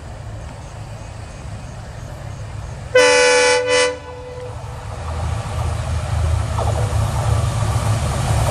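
Diesel locomotive horn sounding one short blast of several tones about three seconds in, over the low rumble of the locomotive's engine, which grows louder over the last few seconds.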